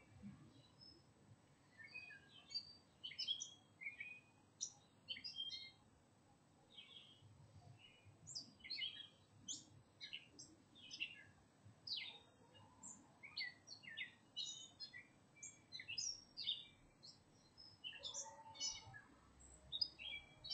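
Songbirds chirping and singing: a steady stream of short, high notes, several a second, from more than one bird.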